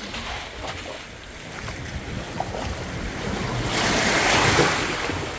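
Sea waves washing in, with one wave surging up about three and a half seconds in and loudest shortly before the end, over a low rumble of wind on the microphone.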